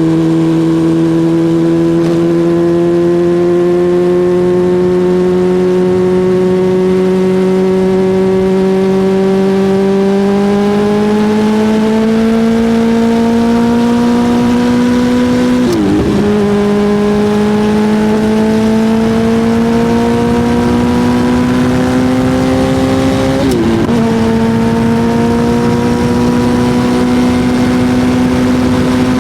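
Suzuki GSX-R1000 inline-four engine running hard under load, its pitch climbing slowly. About 16 s and 23.5 s in, the pitch dips briefly and comes back a little lower, as on an upshift. Rushing wind noise runs underneath.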